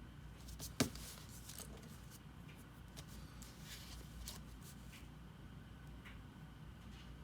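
A sharp click about a second in, then faint, intermittent scratching and rustling of a drawing tool and hands working on paper.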